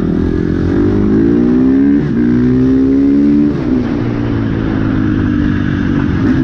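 Dirt bike engine accelerating through the gears. The engine pitch climbs, drops at a gear change about two seconds in, climbs again and drops at a second shift a little before four seconds, then runs steadily.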